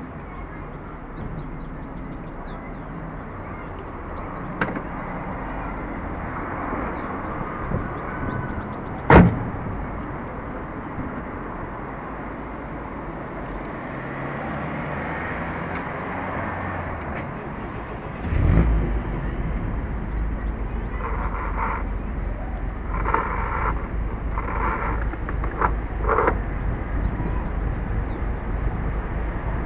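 A 1967 MGB's four-cylinder engine idling with the car at a standstill in traffic. There is one sharp knock about nine seconds in, and a deeper, louder rumble comes in about eighteen seconds in.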